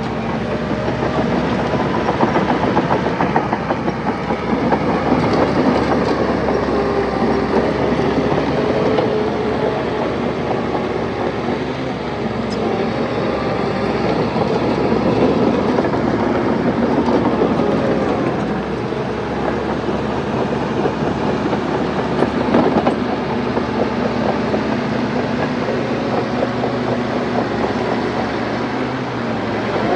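Small crawler bulldozer working: its diesel engine runs under varying load while the steel tracks clatter steadily.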